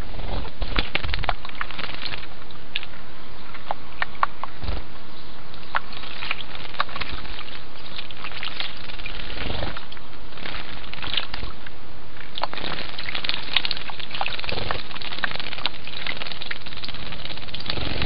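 House sparrows bathing in a shallow stone birdbath: many short splashes and wing-flutters scattered throughout, over a steady background hiss.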